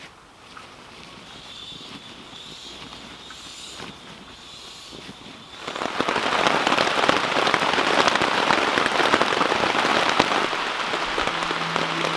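Rain falling, light and faint at first. About six seconds in it becomes suddenly much louder: a heavy downpour of dense, close drop hits on a surface.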